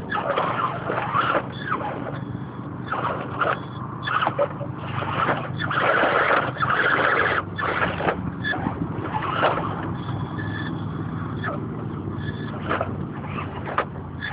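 Axial Honcho RC crawler driven in short, irregular bursts of throttle: its 450-class 1380kv brushless outrunner motor and geared drivetrain whirring, the longest burst lasting about a second and a half midway, over a steady low hum.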